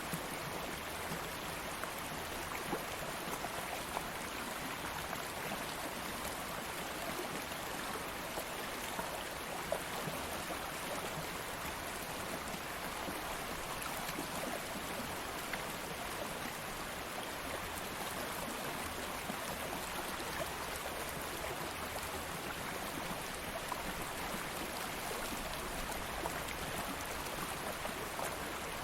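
Stream of water flowing steadily over stones, a continuous rushing babble with small splashes here and there.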